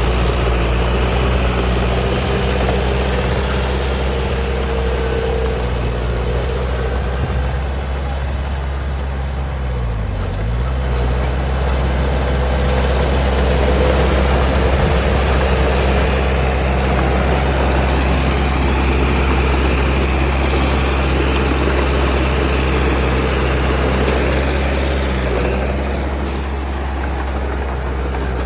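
Heavy diesel engine running steadily. Its pitch dips sharply and recovers twice, about a third of the way in and again near the end.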